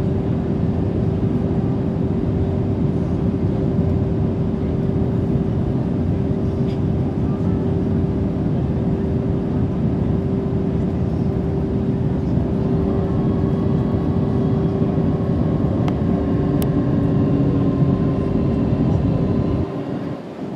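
Airbus A320neo heard from inside the cabin in flight: a steady drone of engines and airflow with a constant hum. The level drops suddenly about a second before the end.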